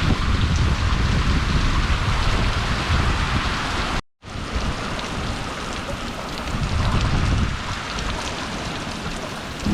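Hurricane rain and wind: a steady, loud rush of rain with wind buffeting the microphone as a low rumble. The sound cuts out abruptly for a moment about four seconds in, then resumes a little quieter.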